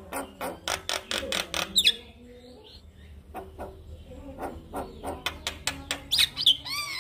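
Male Javan myna singing: a fast run of harsh clicks and chattering notes, a short lull about two seconds in, then more clicks and a few arched whistled notes near the end.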